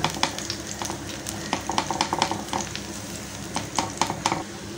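Ground chana dal mixture shallow-frying in oil in a nonstick pan, sizzling with scattered short crackles and pops as a hand presses and pats it down.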